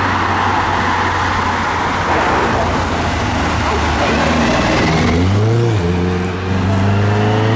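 Car engine accelerating past over a haze of traffic and tyre noise: its note rises about four and a half seconds in, drops briefly, then climbs again steadily.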